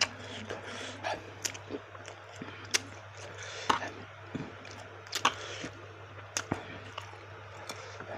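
A person eating baso aci close to the microphone: chewing with irregular wet clicks and smacks, and a few short breathy noises in between. A steady low hum runs underneath.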